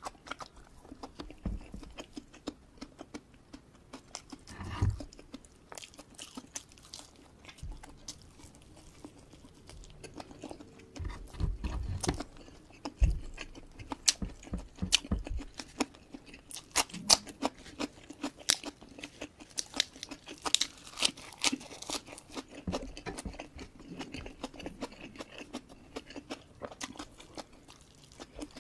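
Close-miked chewing with the mouth closed: crunching and many small wet mouth clicks as rice, fried kampung chicken and raw cucumber are eaten by hand.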